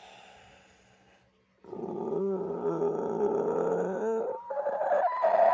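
A person making monster growls with their voice. A faint breath comes first, then a long, rough, strained growl begins about a second and a half in and lasts about two and a half seconds. A second growl starts near the end.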